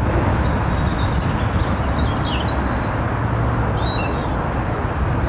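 Woodland songbirds chirping and singing in short high calls over a steady rushing background noise with a low rumble.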